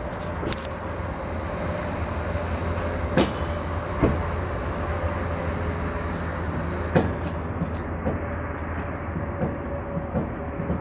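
Car engine running with a steady low rumble, broken by a few sharp knocks about three, four and seven seconds in.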